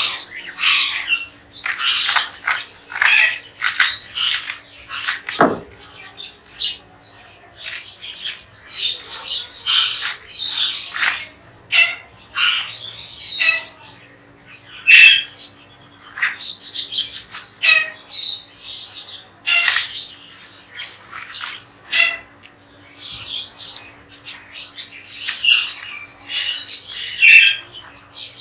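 Flock of pet parrots squawking and chirping without a break, many short harsh calls overlapping, over a faint steady hum.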